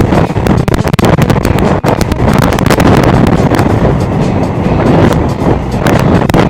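Typhoon storm wind buffeting the microphone, a loud, dense, gusting rush with rapid knocks from the gusts.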